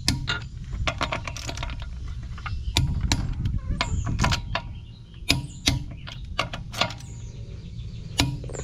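Irregular sharp clicks and knocks of hand tools being handled during car repair work, over a low background rumble.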